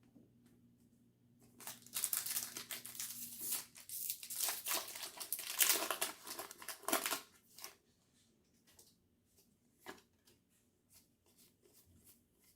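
Foil wrapper of a Pokémon trading card booster pack crinkling and tearing open for about six seconds, starting a second and a half in, followed by a few faint clicks as the cards are handled.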